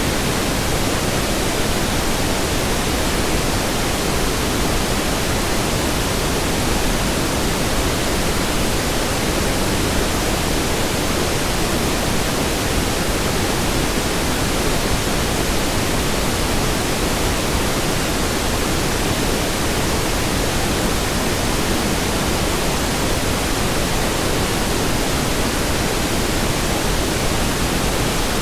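Steady pink noise: an even hiss spread across all pitches, weighted toward the low end, with no change in level.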